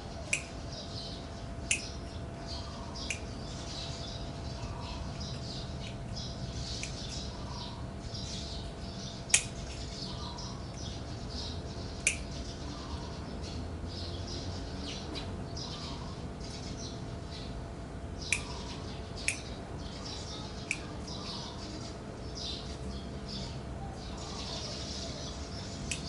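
Small birds chirping and twittering continuously in the background, with a sharp click every few seconds, the loudest about nine seconds in.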